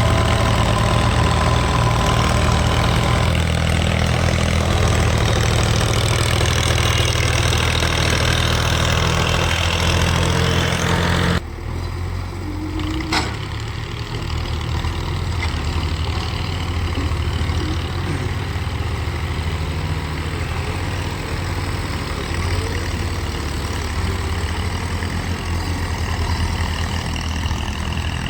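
JCB 3DX backhoe loader's diesel engine running steadily. About eleven seconds in the sound drops suddenly to a quieter running, and a single sharp click follows about two seconds later.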